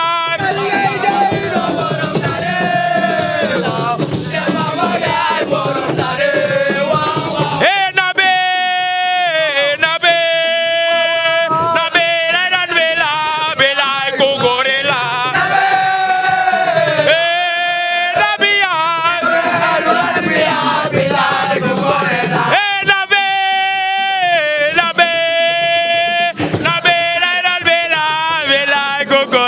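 Music with a male voice singing long, ornamented melodic phrases. The sound is denser for the first several seconds, then the single voice stands out clearly from about eight seconds in.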